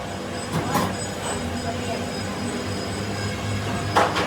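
Steady mechanical running noise with two sharp knocks, one a little under a second in and a louder one near the end.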